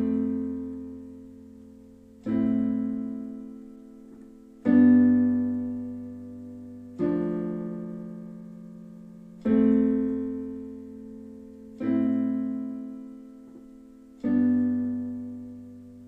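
Slow piano chords, seven in all, struck about every two and a half seconds, each left to ring and fade away before the next.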